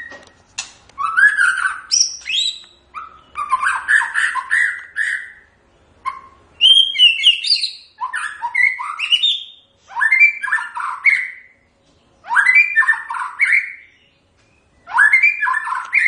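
White-rumped shama singing: about seven loud phrases of rapidly varied whistles and chirps, each a second or two long, with short pauses between them.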